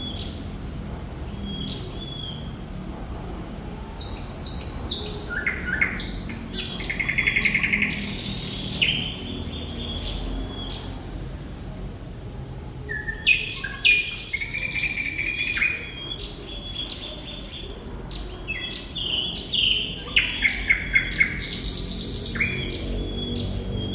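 Thrush nightingale singing in loud, varied phrases of sharp clicks, high whistled notes and fast rattling trills, with short pauses between phrases. A low background rumble runs underneath.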